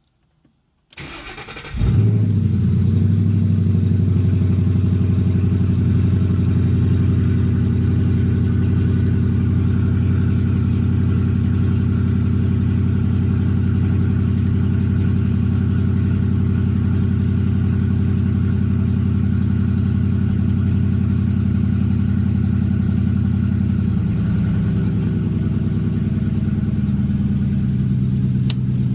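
Ford Boss 302 V8 cold start: the starter cranks for about a second, the engine catches with a loud flare, then settles into a steady fast idle. The idle steps down in pitch about 24 seconds in.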